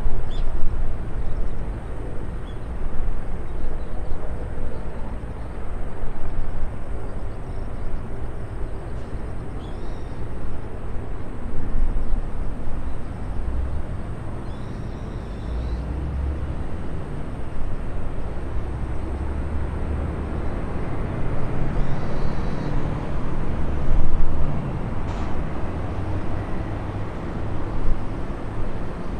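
Steady rushing noise with uneven low rumbles and a sharp gust about 24 seconds in: distant jet aircraft noise around an airport, mixed with wind on the microphone.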